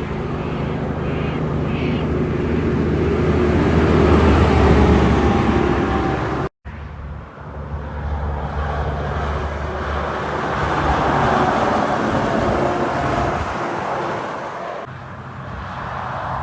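Heavy trucks driving past with their diesel engines running, swelling as each goes by. There is a sudden cut to a second pass about six and a half seconds in.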